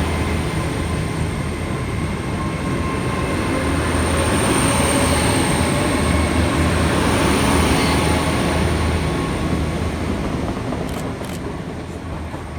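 Hornby OO gauge model of a Hitachi Class 800 bi-mode train playing its DCC sound-decoder running sound: a steady hum and rushing noise with a thin high whine, fading away over the last few seconds.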